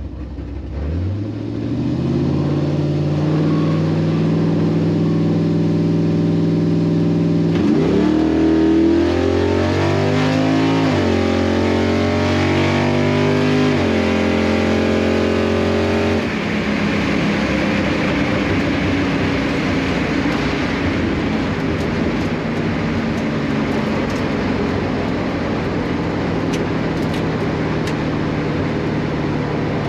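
A drag car's engine held at high, steady revs, climbing sharply in pitch and dropping back once, then held steady again. About halfway through, the steady engine note gives way to the sound of the car pulling away down the track.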